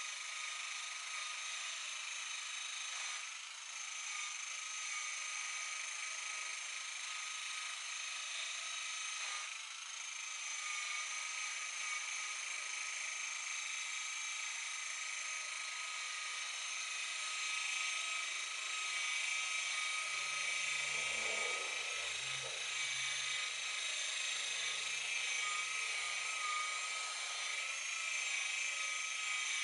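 Electric buffer running at a steady speed with a high whine while buffing oxidation out of a boat's gelcoat, with a few low bumps about two-thirds of the way through.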